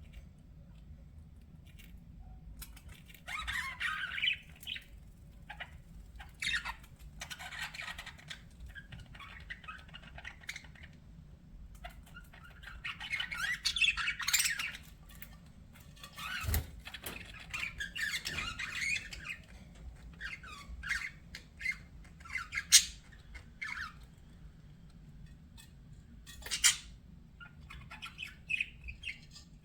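Budgerigars chattering and warbling in irregular bursts, with sharp squawks and clicks scattered through, over a low steady hum.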